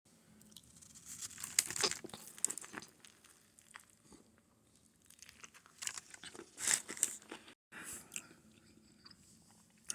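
Biting into and chewing a chicken sub sandwich with lettuce, tomato and onion: soft crunching and wet mouth sounds in two spells, about a second in and again around six seconds in.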